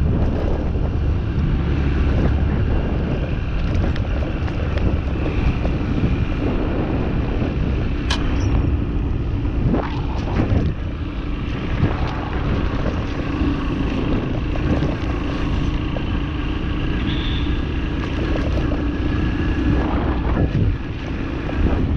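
Farm motorbike engine running steadily while being ridden, with wind buffeting the microphone.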